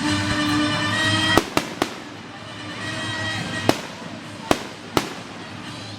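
Fireworks bursting: a quick run of three sharp bangs about a second and a half in, the first the loudest, then three more spaced bangs near the end. Music plays underneath.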